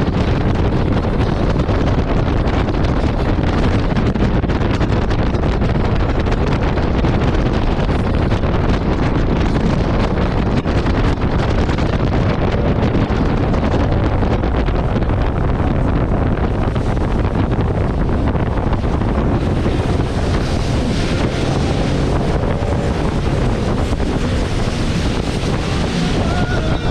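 Steady, loud wind buffeting the microphone, with a jet ski running and water noise beneath it.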